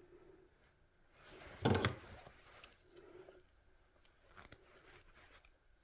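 A hand tool working on a ground-wire terminal: one short, loud, snip-like crunch about two seconds in, then a few light clicks.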